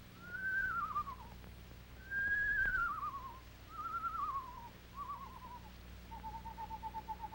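Screech owl calling: four quavering whinnies that each fall in pitch, then, about six seconds in, a long even trill held on one pitch.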